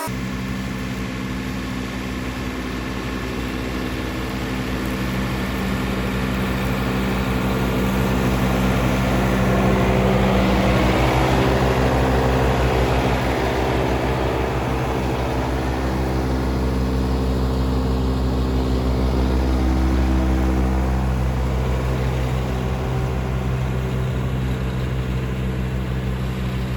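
John Deere 3039R compact diesel tractor running steadily while mowing tall wet grass with its 72-inch mid-mount deck. It grows louder and fades twice, loudest about ten and about twenty seconds in.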